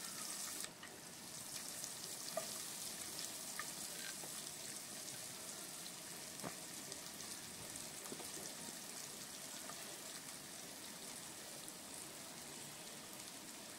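Chopped onions frying in a little hot oil in a kadai: a steady, faint sizzling hiss with a few light ticks scattered through it.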